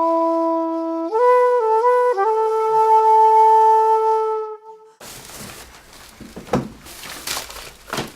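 A few long, held flute-like notes of opening music, stepping up in pitch twice. The music cuts off abruptly about five seconds in, giving way to room sound with rustling and light knocks, like groceries being handled.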